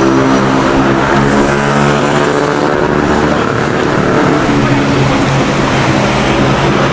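A motor vehicle's engine running, a steady low drone whose pitch shifts slightly about two seconds in, over street traffic noise.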